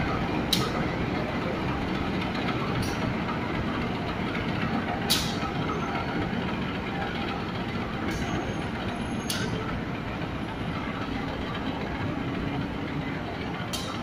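CC 201 diesel-electric locomotive hauling a passenger train slowly past on a far station track: a steady rumble, with a few short sharp clicks scattered through it.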